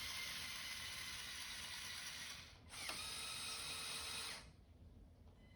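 Electric motors and plastic gear trains of a LEGO Technic Liebherr R9800 excavator whirring as it is driven from the app. The whirr stops briefly at about two and a half seconds, starts again, and cuts off about a second before the end.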